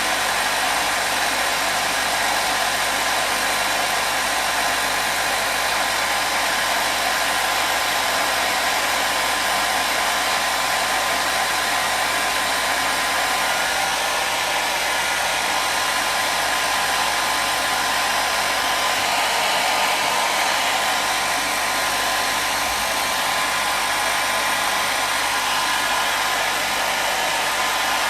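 Hair dryer running continuously, a steady even rushing blow with a faint whine from its motor.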